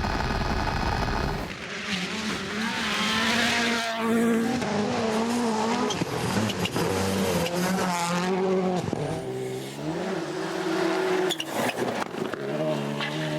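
Rally car engines at full throttle, the note climbing and dropping through quick gear changes, with a few sharp bangs near the end.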